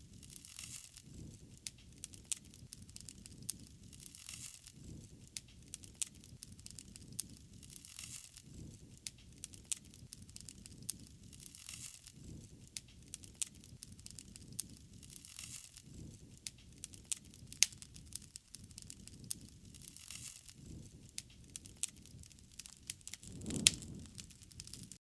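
Wood fire crackling, with frequent sharp pops over a low steady rumble of flames. Near the end comes one louder pop with a dull thud.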